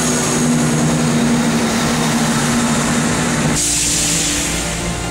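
ScotRail diesel train engine running steadily with a low hum. About three and a half seconds in, the sound is cut off abruptly by an edit.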